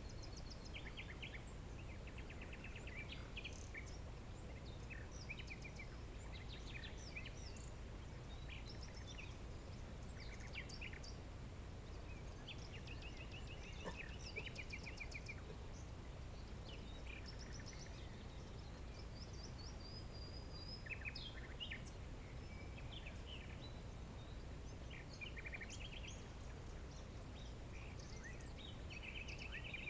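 Several small birds chirping and singing short, fast trills of repeated notes, scattered throughout, over a steady low background rumble.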